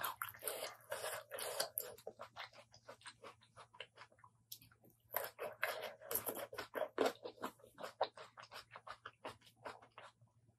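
Close-miked chewing and mouth sounds: dense runs of small quick clicks and crackles that thin out a couple of seconds in and pick up again about halfway through.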